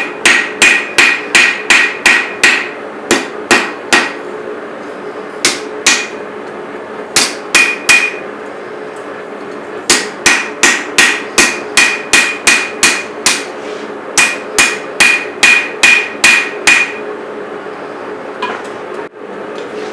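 Hand hammer striking a chef's knife blade of hot steel on an anvil while forging it, in runs of quick blows about three a second with short pauses between runs; many blows ring. The hammering stops near the end over a steady hum.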